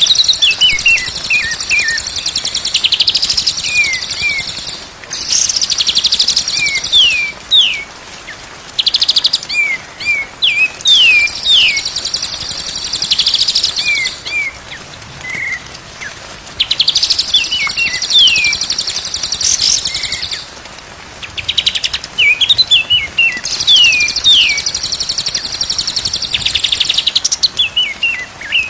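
A songbird singing: long, high buzzy trills of a second or more alternate with quick runs of short downward-sweeping chirps, over and over.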